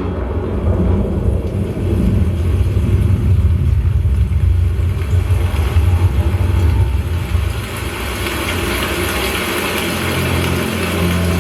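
Film soundtrack played through a home theater speaker system: a heavy, steady low rumble like a vehicle engine, easing about eight seconds in as steady musical tones swell up near the end.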